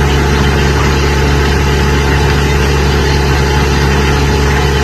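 Loud, steady mechanical hum of air-moving equipment with a strong low drone, running unchanged during an automatic upstream sampling run of an aerosol photometer filter test.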